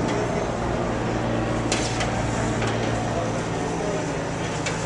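A vehicle engine running steadily with a low hum, over general street noise, with a few short sharp clicks.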